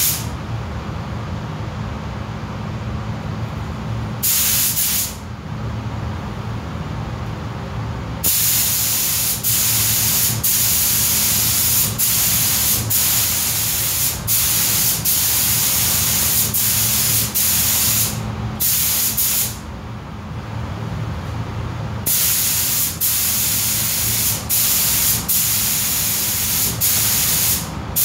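Air-fed paint spray gun hissing in long passes as a thin coat goes onto car body plastics, stopping briefly a few times between passes, over a steady low hum.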